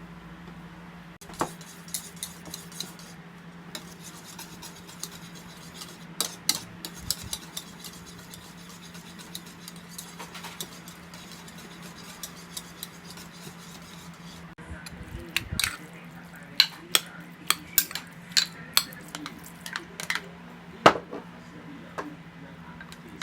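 A spoon stirring and clinking against a bowl in scattered strokes, busier from about fifteen seconds in, over a steady low hum.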